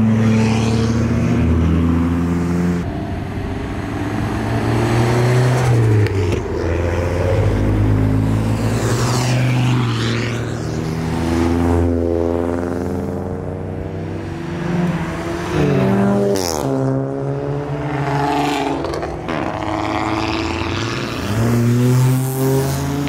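Modified tuner cars driving out one after another, their engines revving up and dropping back several times as they pull away and change gear.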